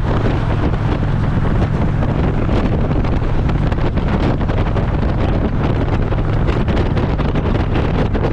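Wind buffeting the microphone of a Harley-Davidson motorcycle at road speed, over the steady low drone of its V-twin engine.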